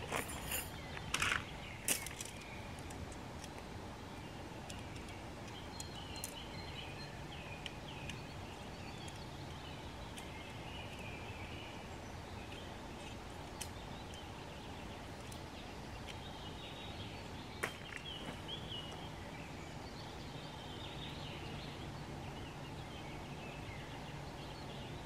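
Woodland ambience: a steady background hiss with birds chirping now and then, and a few sharp knocks near the start and again about two-thirds of the way through.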